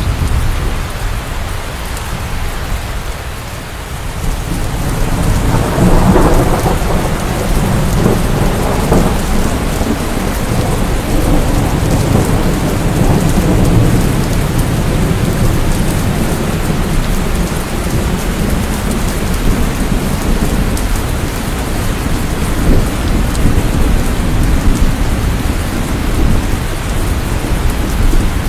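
Steady heavy rain falling, with rolling thunder: a low rumble at first, then about six seconds in a clap of thunder that rumbles on for several seconds and fades back under the rain.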